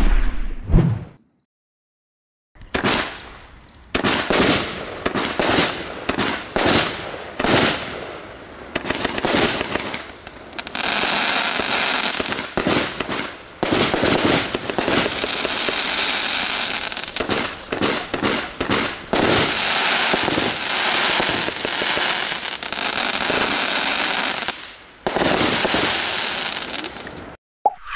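Bright Star Fireworks 'Fallout Zone' 41-shot barrage cake firing. After a brief silence the tubes fire a string of separate shots, and from about ten seconds in the bursting stars' glitter and crackling effects run together into a dense, steady crackle.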